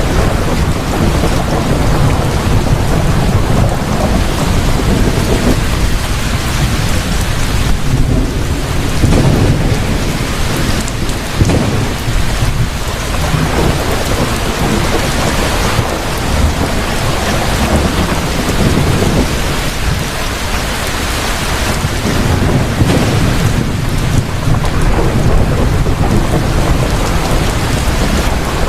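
Heavy rain falling steadily through a thunderstorm, with a low thunder rumble that swells and fades several times.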